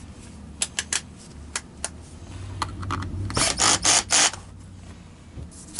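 Hand work on a vacuum power nozzle: scattered sharp clicks of parts and tools, then a run of four quick, loud strokes about three and a half seconds in.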